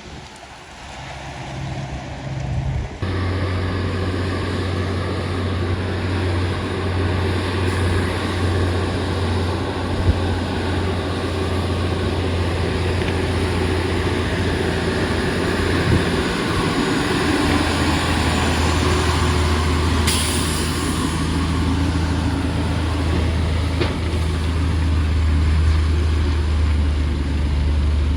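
Heavy truck diesel engine running steadily with a low drone, starting abruptly about three seconds in. A brief hiss comes about two-thirds of the way through.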